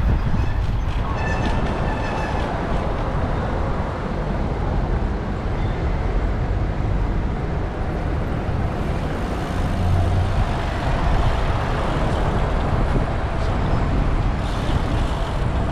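City traffic and road noise heard from a moving bicycle, with heavy wind rumble on the bike-mounted action camera's microphone. A low hum swells briefly about ten seconds in.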